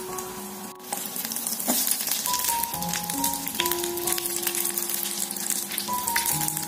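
Oil sizzling and crackling as a block of instant noodles fries in a small electric pan, louder after about a second in, with background music.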